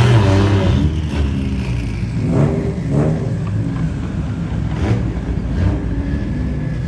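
Car engine running and being revved, with the pitch swelling up and back down about two and a half and three seconds in, and again more briefly near five seconds.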